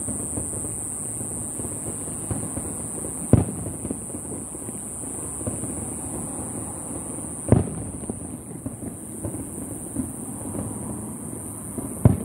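Fireworks display finale: aerial shells popping and crackling continuously, with three loud booms about four seconds apart.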